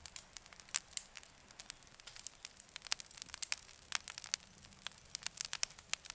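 Wood fire crackling: irregular sharp pops and snaps over a faint hiss.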